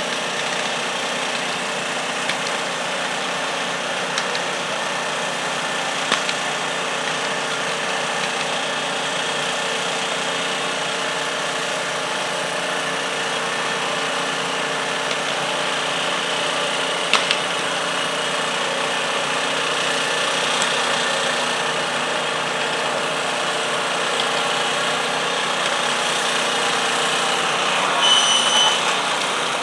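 Garden tractor engine running steadily, with a few light clicks. A brief high whistle-like tone sounds near the end.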